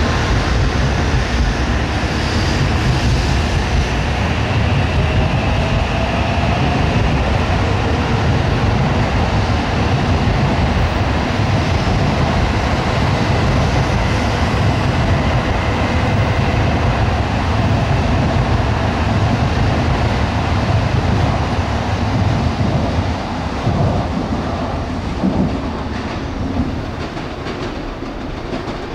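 N700A Shinkansen train running along the platform: a steady heavy rumble of wheels on rail with a faint motor whine, easing off over the last five or six seconds.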